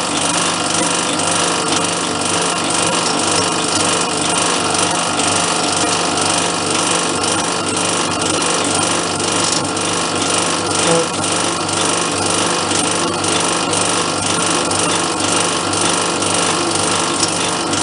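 Metalworking machine tool running steadily while cutting a metal part down to size, a continuous rasping run with fast fine ticks.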